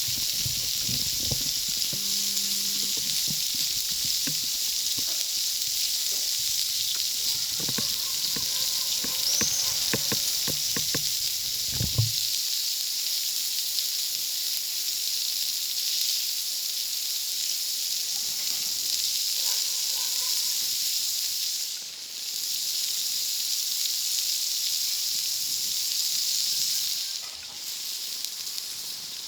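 Food sizzling on a wood-fired plancha, a steady high hiss, with scattered knocks and clicks during roughly the first twelve seconds.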